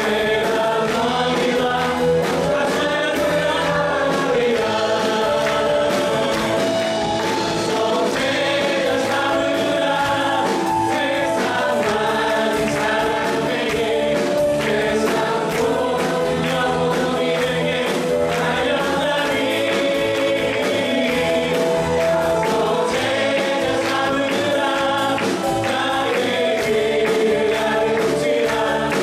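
A church congregation singing a Korean gospel praise song together in chorus, with instrumental accompaniment, at a steady level throughout.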